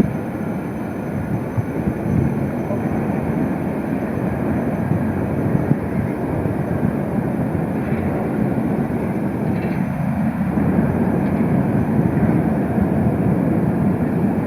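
Berlin tram running on street track: a steady rumble of wheels on the rails.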